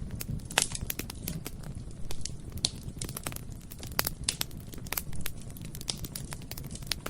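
Bonfire burning: a steady low roar of flames with sharp crackles and pops scattered irregularly, several each second, a few standing out louder.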